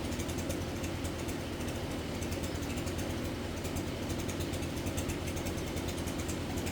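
A motor running steadily with a fast, even ticking rattle over a low hum.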